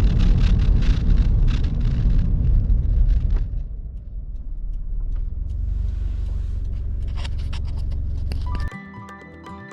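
Toyota 86's 2.0 L flat-four engine running through an HKS aftermarket muffler: a loud, rough rumble that drops after about three and a half seconds to a quieter, steady idle. The engine sound cuts off sharply near the end, and music begins.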